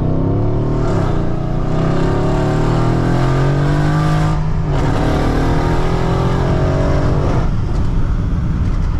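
Mercedes-AMG GLE 63 S's twin-turbo V8 accelerating in manual mode, its pitch rising through a gear. It dips briefly at an upshift about four and a half seconds in, climbs again, and shifts once more about seven and a half seconds in.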